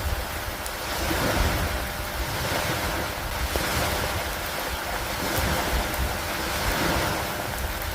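Steady rain over lake water with wind: an even rushing hiss that swells and eases every couple of seconds.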